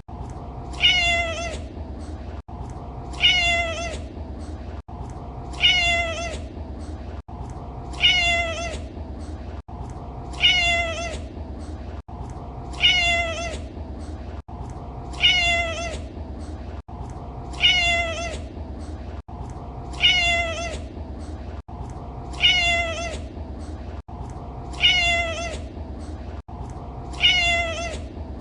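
A domestic cat's meow, the same single meow repeated evenly about every two and a half seconds as a loop, over a steady low background rumble.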